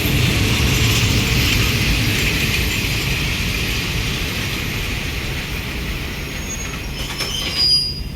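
Passenger train running on the rails: a steady low rumble and hiss that eases off slowly, with a brief high squeal near the end.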